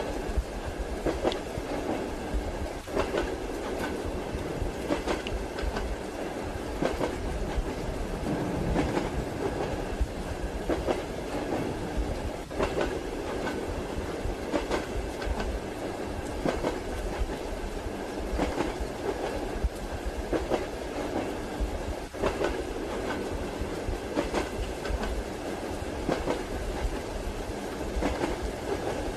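Railway carriage wheels clacking over rail joints every second or two above the steady rumble of a moving train, with a soft even rain hiss mixed in.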